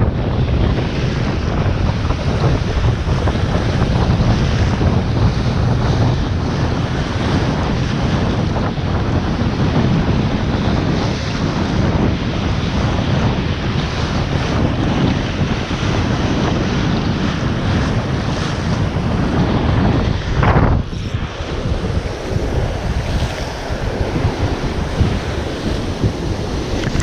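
Strong wind buffeting the microphone, over waves breaking on the shore. The wind drops briefly about three-quarters of the way through.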